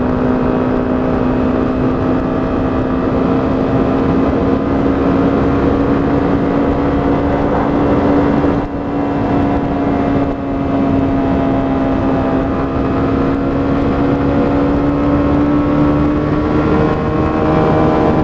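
125cc motorcycle engine running steadily at cruising speed, its note rising gently near the end, with wind noise rushing underneath. The engine note dips briefly twice around the middle.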